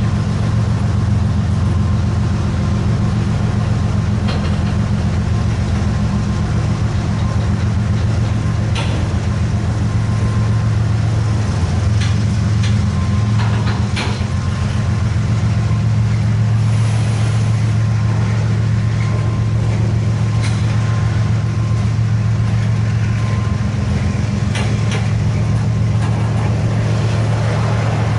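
A large engine running at a steady idle: a constant low drone that holds its level throughout, with a few scattered sharp clicks.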